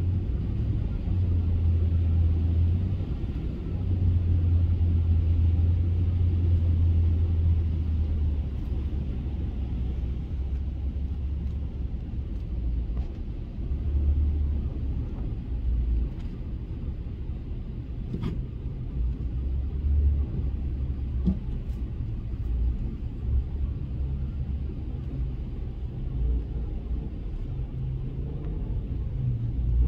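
Truck driving, a steady low rumble of engine and road that swells and eases, with a few faint clicks.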